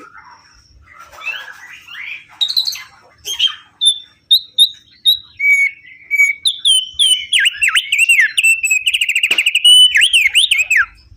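An opior songbird singing a varied, energetic song. It opens with soft chattering and builds into loud, sharp whistled notes that slide up and down in pitch, with a fast trill near the end before the song breaks off.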